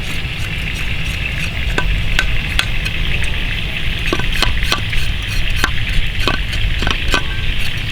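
Food sizzling as it fries in a pan while being stirred, with irregular clicks and taps of the utensil against the pan.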